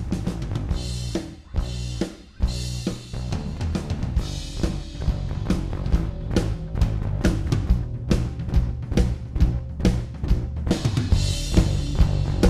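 Recorded live drum kit and bass playing a groove: kick, snare and cymbals over sustained bass notes, run through compressor plugins. The music briefly drops out twice early on, then carries on steadily.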